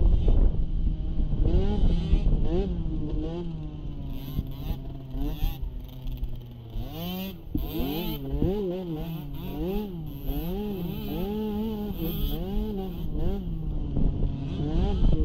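Small youth ATV engine revving up and down again and again as it is ridden, its pitch rising and falling about once a second through the second half.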